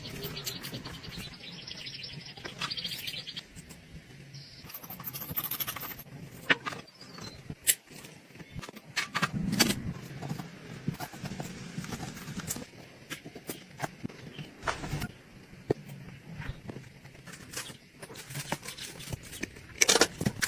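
Small metal clicks and taps from hand tools working on watch parts, scattered irregularly. A dense run of rapid ticks fills the first three seconds, and a short high hiss comes about five seconds in.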